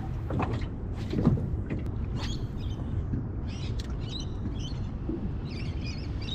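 Birds calling in clusters of short high chirps from about two seconds in, over a steady low rumble of wind on the microphone, with a few sharp clicks near the start.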